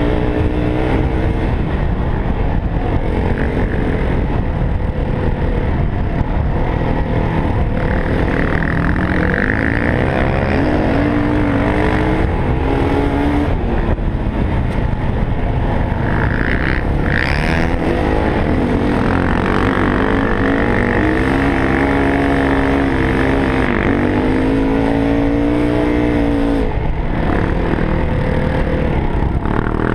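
Yamaha WR450F's single-cylinder four-stroke engine revving up and down while riding a trail, its pitch rising and falling with throttle and gear changes, over a constant heavy rumble of wind and terrain.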